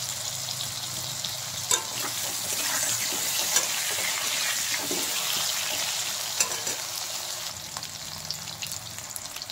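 Potato wedges frying in hot mustard oil in a steel kadai: a steady sizzle. A metal spatula scrapes and taps against the pan a few times.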